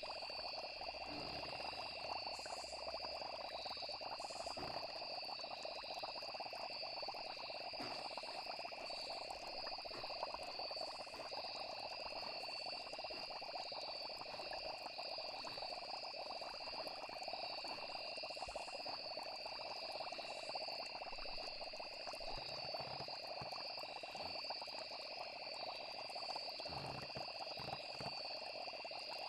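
Steady night-time nature ambience: insects trilling in two continuous high tones over a dense, even chorus of frogs.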